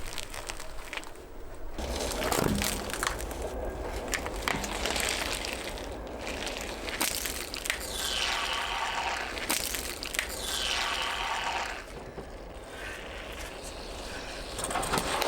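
A car tyre rolling over and crushing objects: dense crunching and crackling with many sharp snaps, shifting abruptly every few seconds.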